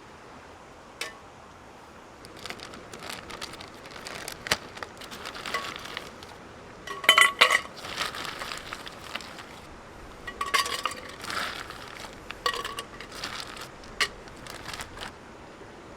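Metal camping gear being handled and set down: a scatter of clinks and knocks, some with a short metallic ring, loudest about seven seconds in and again around ten seconds, over a steady outdoor hiss.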